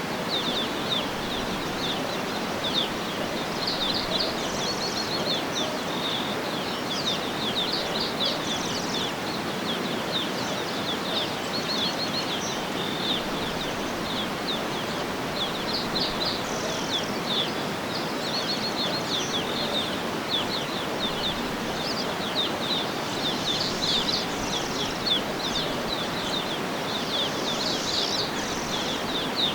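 Many small birds chirping and twittering in quick, short notes throughout, over a steady rushing background noise.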